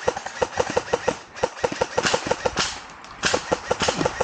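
Airsoft gunfire: rapid, evenly spaced shots, about seven a second, in long bursts. Short scuffing rustles come in between the bursts in the second half.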